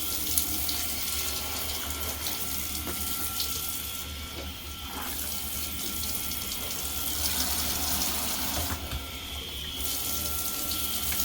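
Tap water running and splashing as a dirty vacuum filter is rinsed under the stream in a bathtub. The splashing thins out briefly twice, about four and nine seconds in.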